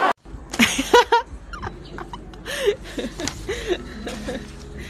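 Human laughter: short chuckles and snickers with a few voiced syllables, over a low steady hum.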